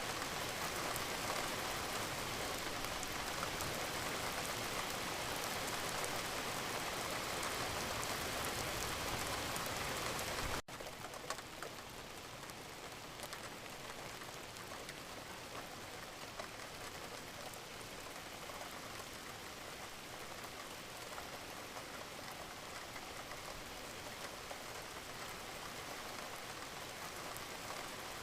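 Wood fire crackling and hissing steadily with many small pops. About ten seconds in it drops suddenly to a quieter level and carries on with a few sharper pops.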